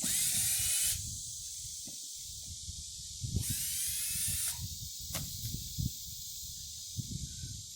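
Two short runs of a cordless drill or driver backing screws out of a wooden swarm trap, each lasting about a second, with the motor's whine sliding in pitch. A steady high chorus of crickets or other insects runs underneath.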